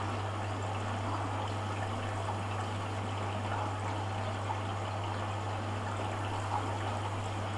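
Hoover Dynamic washing machine on its rinse stage: water running steadily inside the machine, with a constant low electrical hum underneath.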